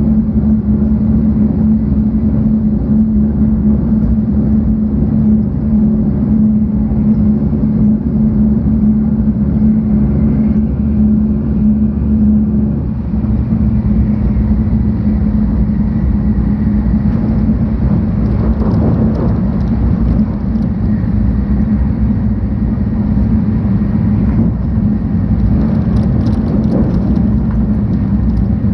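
Running noise heard inside a 700 Series Shinkansen passenger car: a steady low rumble with a constant hum, dipping briefly about halfway through.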